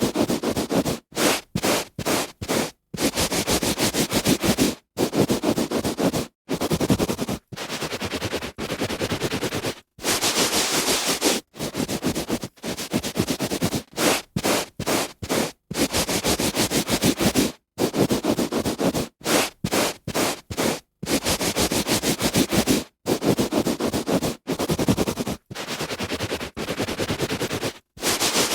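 A hand rubbing on a carpet, a scratchy rustle of palm on fibres, in passages of a second or two broken by short silences.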